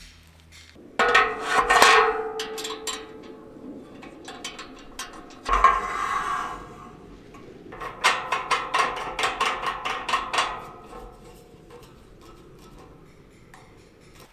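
Metal camp cookware and gear being handled: a ringing metallic clank about a second in, then a noisy scrape or rustle, then a run of rapid clattering and knocking.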